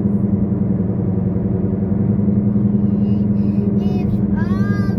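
Steady drone of a car's engine and road noise heard from inside the cabin while driving. Near the end a high child's voice briefly sounds over it.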